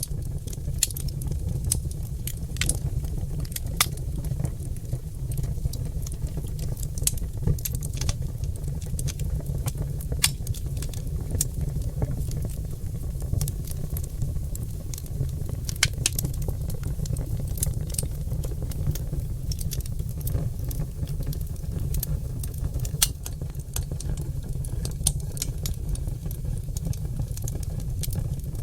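Oak logs burning in a fireplace: a steady low rumble from the flames with irregular sharp crackles and pops.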